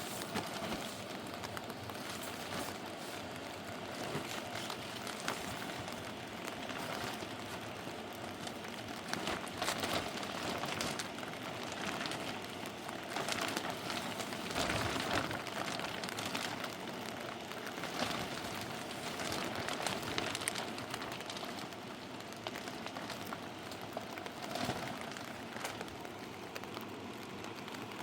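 Steady hiss of heavy rain falling, with scattered sharper taps of drops.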